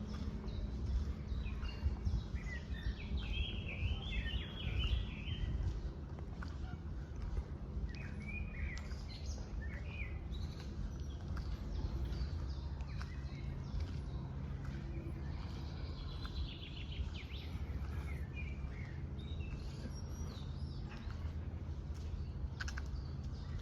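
A small songbird singing short phrases every few seconds, over a steady low background rumble.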